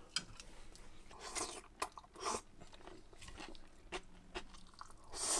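A person chewing and crunching a mouthful of food close to the microphone, in short irregular crunches, with a few light clicks of chopsticks against the plate.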